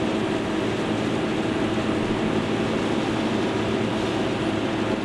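Fishing boat's engine running steadily under way, a constant drone with a rushing noise over it, the boat towing another vessel.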